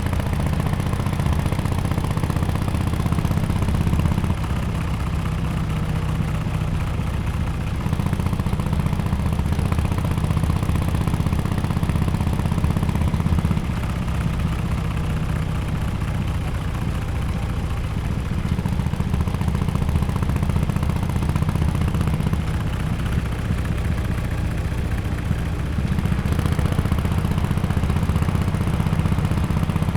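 Harley-Davidson XL1200X Forty-Eight's air-cooled 1200 cc V-twin running at low revs through a Bell's Performance aftermarket exhaust, a deep steady exhaust note. The note drops back a little about four seconds in and again near the middle, then picks up near the end.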